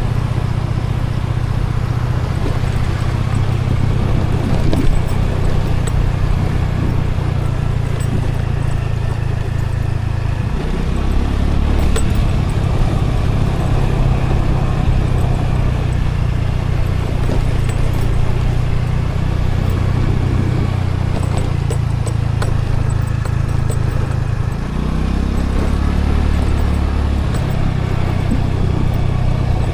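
Scooter engine running steadily over continuous road noise. Its pitch shifts about a third of the way in, then dips and climbs back over a couple of seconds near the end.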